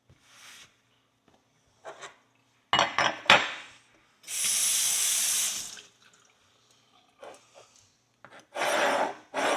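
A kitchen tap runs in a steady rush for about a second and a half, midway through, wetting a dirty horseshoe to loosen the caked grime. Short scrapes and knocks of metal being handled come before and after it.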